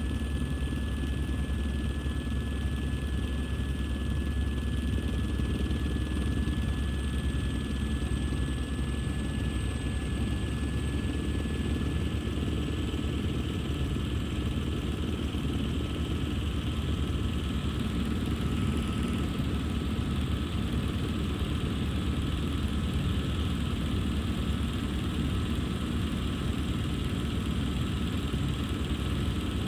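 Helicopter running in flight, heard from on board: a steady, dense low drone of rotor and engine with a fast beat, over which a few thin high whines hold level.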